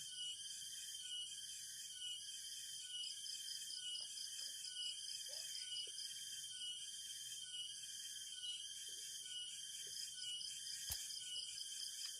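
Rainforest insect chorus: a steady high-pitched trilling with a pulsing beat about twice a second, and one sharp click about eleven seconds in.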